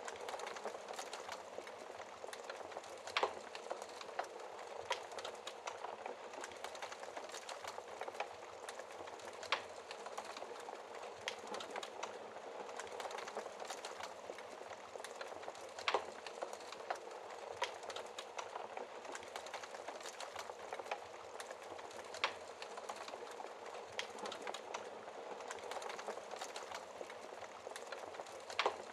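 Wood fire burning in a fireplace: a steady hiss of flames with constant small crackles of burning wood and about five louder sharp pops spread through.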